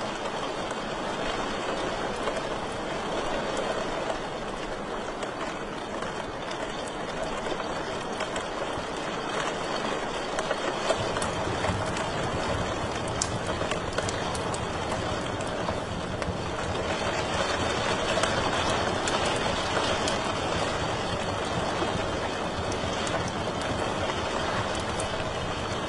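Wood fire burning in a fireplace: a steady hiss with frequent small crackles and pops. A low rumble joins in about eleven seconds in.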